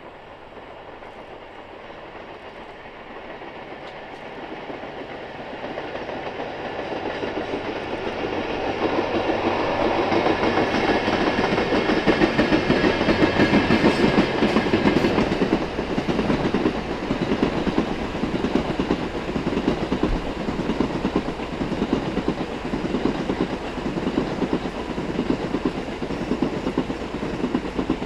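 Cassiopeia sleeper train, hauled by EF64 and EF81 electric locomotives, passing by. The rumble builds to a peak about halfway through as the locomotives go past, then the coaches' wheels clatter over the rail joints in a steady rhythm.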